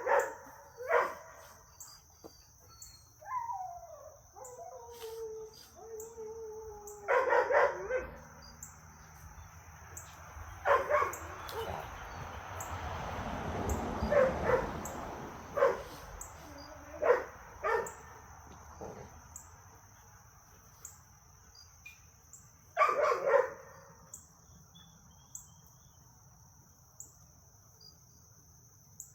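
Dogs at play giving single short barks every few seconds, with a long falling whine or howl a few seconds in.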